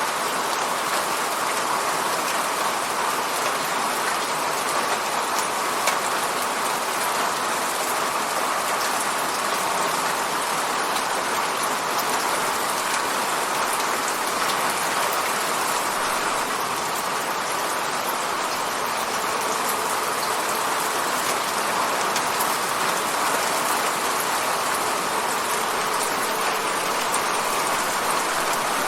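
Steady rain falling on a window pane: an even hiss with scattered sharp drop taps.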